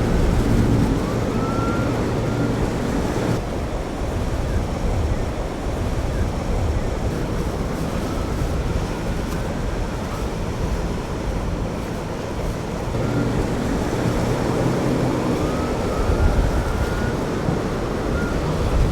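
Boat engines and breaking surf in a rough inlet, a loud, steady, dense rumble. A few faint rising tones rise out of it near the start, in the middle and near the end.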